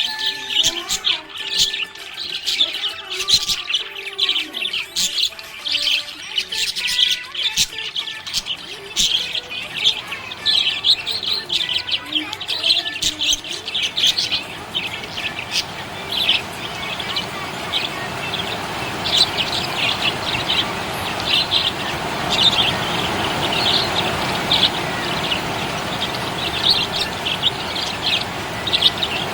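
Budgies chirping rapidly and continuously in short, high tweets, with lower warbling whistles mixed in during the first half. A steady rushing noise builds underneath the chirps about halfway through.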